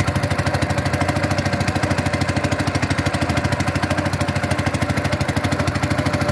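A small engine running steadily at idle, with a rapid, even pulsing beat.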